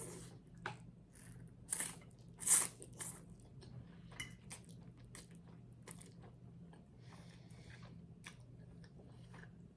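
Close-miked biting and chewing of crunchy garlic bread: a couple of loud crunches in the first few seconds, then softer chewing clicks and crackles.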